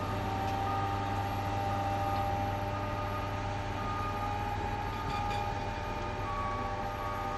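Engine of rail maintenance-of-way equipment running steadily, a low hum with a steady whine on top.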